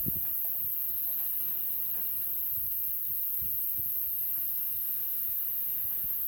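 Wood campfire burning with a steady hiss and a few soft low pops, as pig's trotters grill over it.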